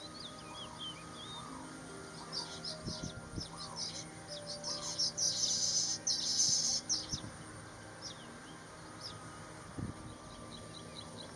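Birds chirping and calling: repeated short curving calls in the first seconds, then a dense, louder run of quick high chirps in the middle, thinning out to scattered chirps near the end.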